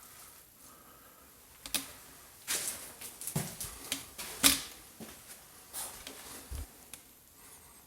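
A string of irregular clicks and knocks mixed with short scraping noises, busiest in the middle, with a dull thump near the end.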